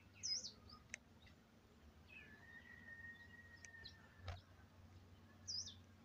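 Faint birds chirping: a short, high, warbled chirp just after the start and another near the end, with a long thin steady note in between.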